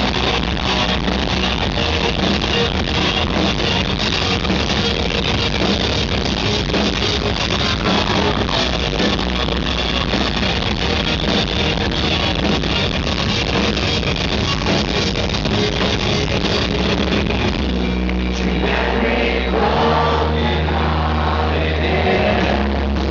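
Live rock band playing loud distorted guitars, bass and drums with singing, recorded from the crowd.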